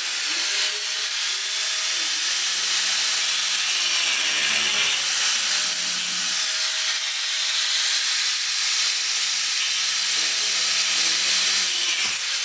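Steady loud hissing of metal fabrication work on a motor mount, with a faint low hum underneath.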